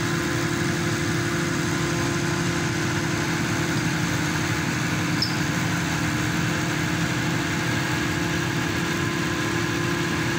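Engine of a hydraulic static pile driver running steadily: an even, unchanging drone with a constant hum.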